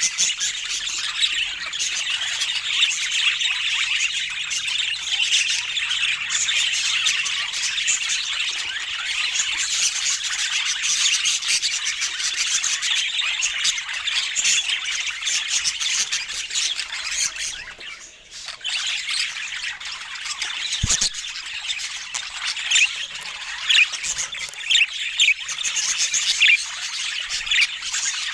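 Budgerigars chattering and chirping in a dense, continuous stream of squawks and warbles, with a brief lull just past halfway. A short low knock follows a few seconds after the lull.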